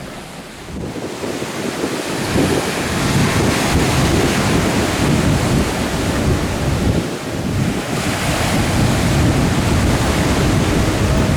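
Wind rushing over the microphone with a steady surf-like wash, swelling about two seconds in and staying loud.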